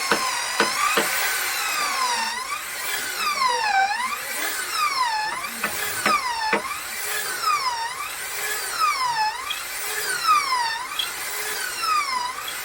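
Electric power tool cutting into wood. Its motor whine drops in pitch under load and climbs back about once every second, in a steady rhythm. A few sharp knocks come near the start and about halfway through.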